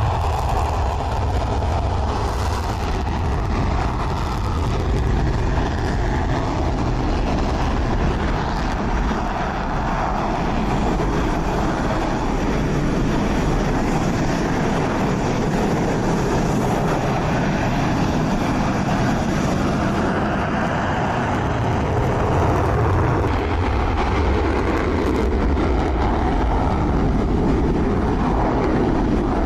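Jet aircraft engines running: a loud, steady noise that shifts in tone about twenty seconds in.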